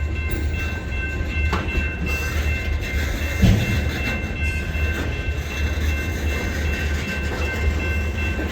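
A freight train rolling past with a steady low rumble and a thin, steady high tone held over it. There is a single knock about three and a half seconds in.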